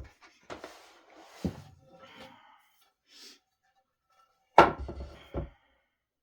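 Solid-wood dining table parts being handled during assembly: rustling and scraping with a thud about a second and a half in, then a loud knock near the end, followed quickly by a second knock.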